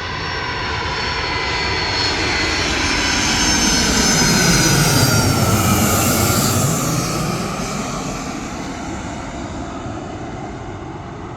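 Jet airliner passing close on its landing approach. The engine whine and rush build to a peak about five seconds in, its high tones falling in pitch as it goes by, then fade away.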